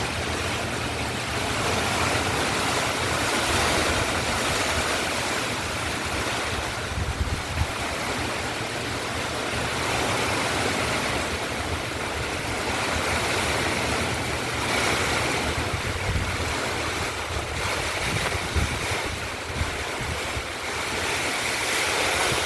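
Steady heavy rain falling, with gusts of wind buffeting the microphone in uneven low rumbles.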